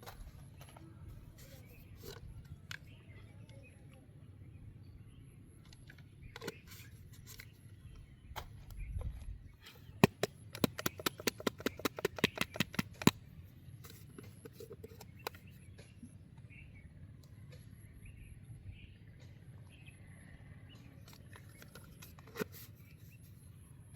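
A fishing reel ticking in a quick even run of sharp clicks, about eight a second, for about three seconds near the middle. Scattered handling knocks come before and after it.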